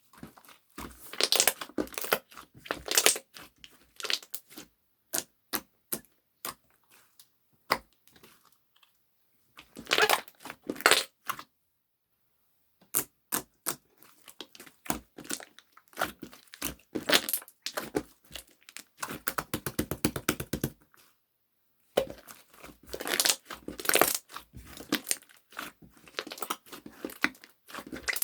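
Hands crinkling, tearing and tapping paper or plastic in irregular bursts, with sharp clicks between them and a quick run of fine scratchy ticks about two thirds of the way through.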